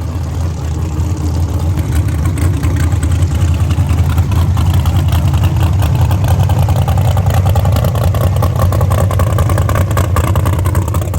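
A car engine running continuously with a heavy steady low rumble, its pitch slowly rising through the second half.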